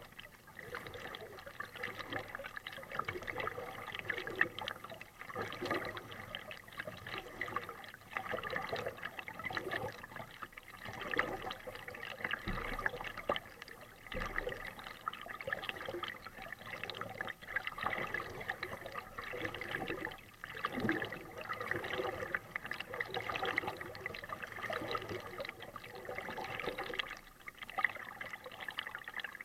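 Water splashing and trickling from kayak paddle strokes, the blades dipping and dripping in irregular surges.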